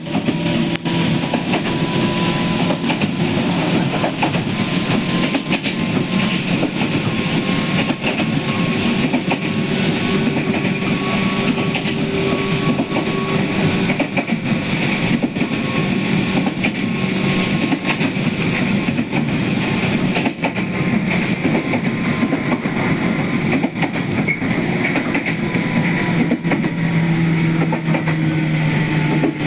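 Toyama Chiho Railway electric train running at speed: a steady rolling rumble with a humming motor tone and scattered clicks of wheels over rail joints.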